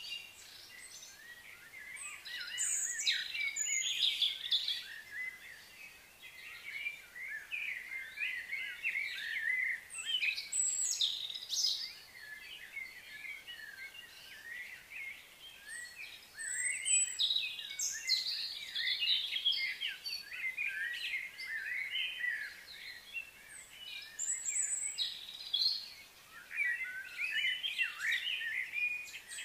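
Birds chirping and twittering: quick, high calls that come in several bursts separated by short lulls.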